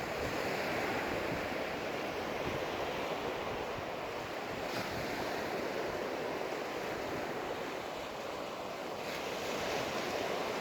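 Ocean surf breaking and washing up a sandy beach, swelling and easing over several seconds, with wind rumbling on the phone's microphone.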